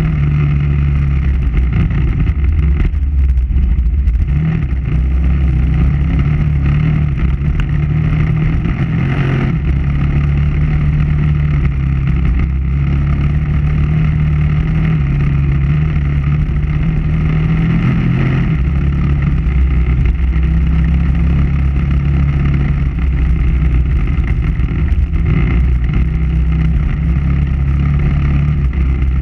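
KTM 990 Adventure R's V-twin engine running steadily as the motorcycle is ridden, its pitch shifting a little now and then with the throttle.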